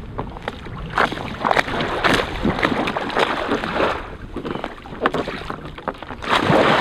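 Water splashing and sloshing around an inflatable kayak in a busy, irregular run, rising to a louder rushing wash near the end.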